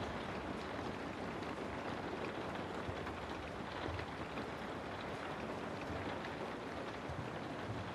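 Steady rain, a dense even hiss of falling rain with faint scattered drop patter, used as background white noise.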